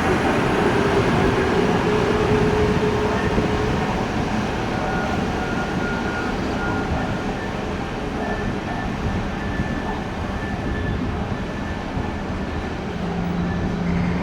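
Train running on the tracks at the station: a steady rumble of wheels and running gear with a few faint held tones, easing off over the first half.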